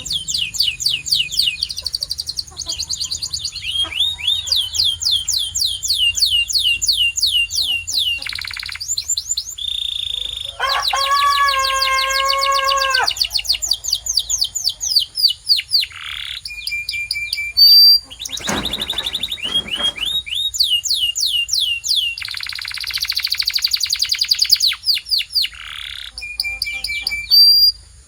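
A canary singing a long continuous song of fast trills, rapid repeated falling notes strung together, broken by short clear whistles. Near the middle comes a lower, held, buzzy note, and about two-thirds through a short harsh burst.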